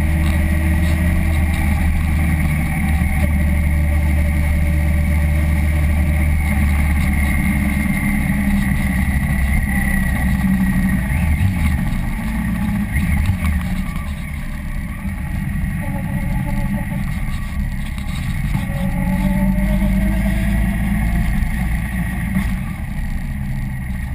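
Sport motorcycle's engine running under way, heard from a camera mounted on the bike. The engine note quietens a little about halfway through and rises in pitch again in places later on.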